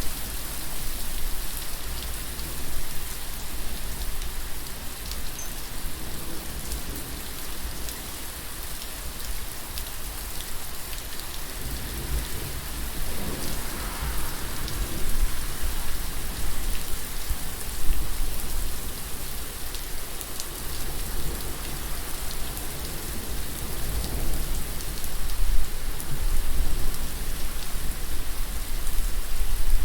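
Steady rain falling on a surface, with individual drops ticking and a deep low rumble underneath.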